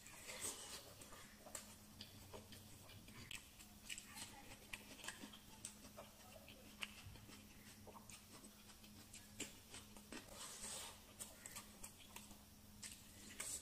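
Faint close-miked eating sounds: irregular small wet clicks, smacks and chewing from a person eating rice and prawn curry by hand. A faint steady low hum runs underneath.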